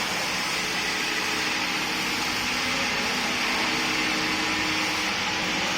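Steady mechanical hiss and hum of a machine-building workshop, running evenly with no distinct strikes or changes.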